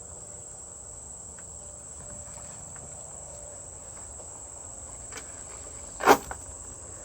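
Insects keep up a steady, high-pitched drone. About six seconds in comes a single sudden loud thump.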